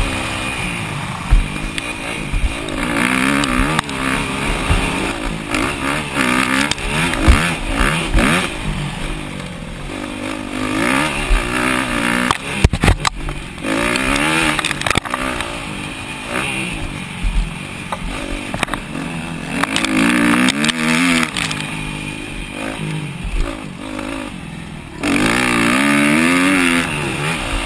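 250cc four-stroke motocross bikes running hard on a track, the engine pitch climbing and dropping again and again as the riders twist the throttle and shift gears. Sharp knocks and clatter come through at intervals, louder for a moment about halfway through, and the engine holds a higher, louder note for a couple of seconds near the end.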